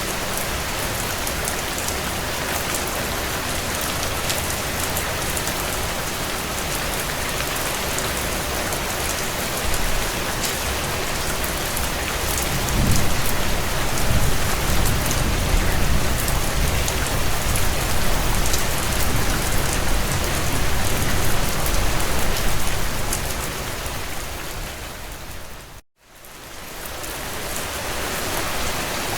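Steady heavy rain pattering on window panes, with a low rumble of thunder that swells about twelve seconds in and lasts some ten seconds. Near the end the sound fades out to a moment of silence and fades back in.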